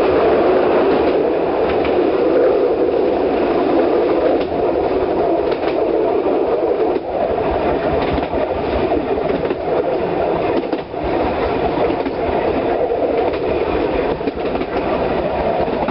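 Vintage narrow-gauge electric train with wooden carriages running along the track, heard from aboard: a steady rumble and rattle of the wheels and carriage, with scattered clicks of the wheels over the rails.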